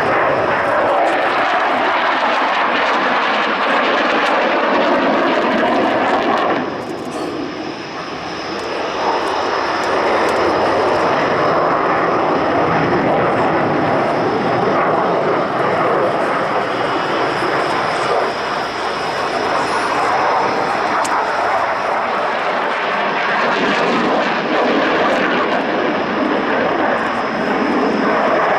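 Loud jet noise from a MiG-29's twin RD-33 turbofans during a flying display, dipping briefly about seven seconds in before building up again.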